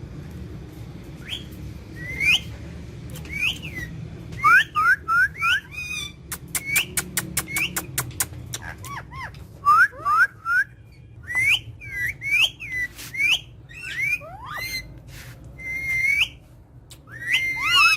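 Pet parrots giving many short whistled chirps, each rising or falling in pitch, in quick runs through most of the stretch, with a fast series of sharp clicks about six seconds in. A low steady hum sits underneath.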